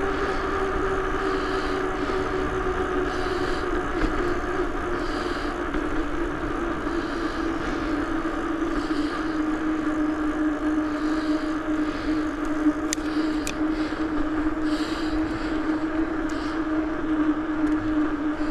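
Bicycle in motion on a road: a steady hum that slowly drops a little in pitch, over continuous rushing wind and road noise.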